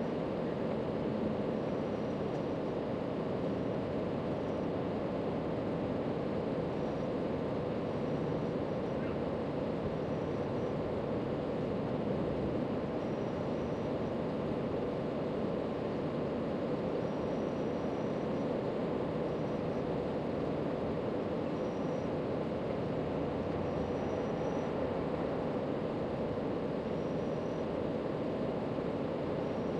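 Steady low rushing background noise, with short faint high-pitched tones every second or two.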